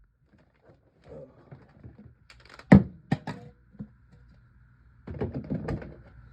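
Knocks and clatter of food containers being handled: one sharp knock a little under three seconds in, a few lighter clicks after it, then a second or so of rattling clatter near the end.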